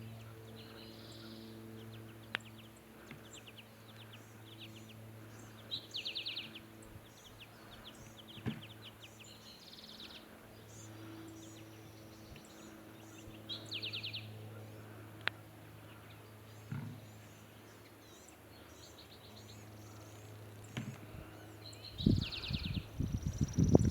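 A small songbird sings short, fast trills, repeated every few seconds over a steady low hum. Near the end come loud, irregular low thumps and crunches.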